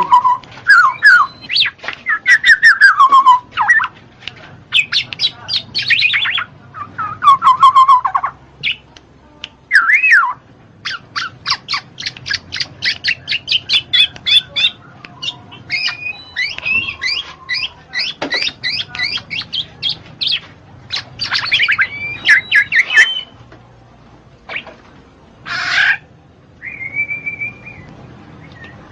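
Black-naped oriole (kepodang) calling in a long bout. It mixes descending slurred whistles and harsh squawks with fast chattering runs of repeated notes. There is a short pause near the end, then one harsh call and a level whistle.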